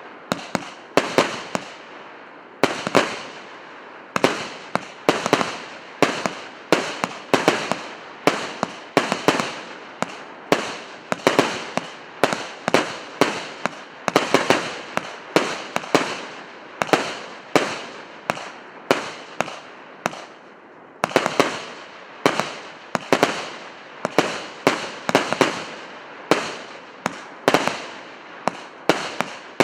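A 100-shot firework battery (cake) firing shot after shot, about two sharp bangs a second, each trailing off. The shots break off briefly about twenty seconds in, then resume.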